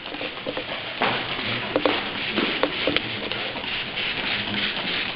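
Hand trigger spray bottle spritzing water over a vacuum bag to find leaks, several quick squirts about one to three seconds in, over a steady hiss.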